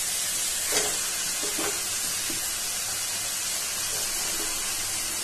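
Raw chicken pieces frying in hot oil and tomato-onion masala in a kadai, a steady sizzle. A few light knocks come about one and one and a half seconds in.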